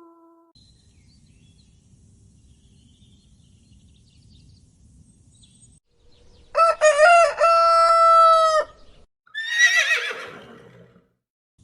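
A rooster crowing once, loud: a few short notes and then one long held note, about six and a half seconds in. A shorter, hoarse call falling in pitch follows about two seconds later, and before the crow there is only a faint low rumble.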